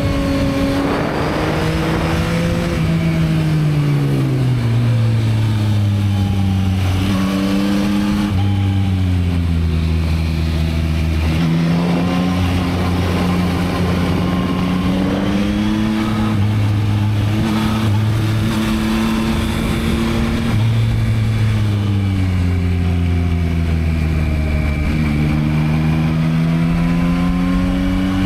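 2022 Yamaha MT-09's 890 cc inline three-cylinder engine on its stock exhaust, running under way as the bike is ridden. The engine note rises and falls repeatedly with the throttle, with several sudden steps in pitch.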